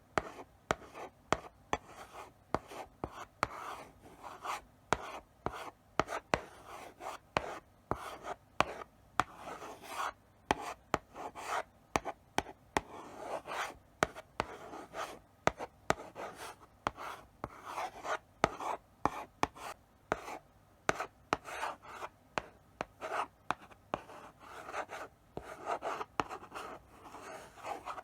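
Chalk writing slowly on a blackboard: short scratchy strokes one after another, broken by sharp taps as the chalk meets the board.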